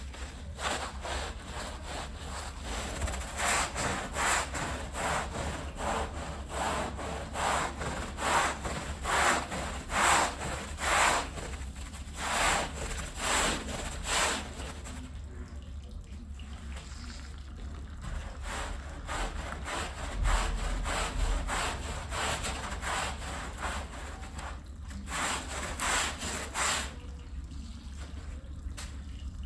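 A rug being scrubbed in rhythmic back-and-forth strokes, roughly one a second. The scrubbing stops about halfway and comes back briefly near the end.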